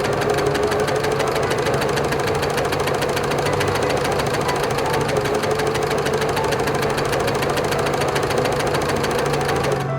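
Farm machine engine running steadily with a fast, even knocking rhythm.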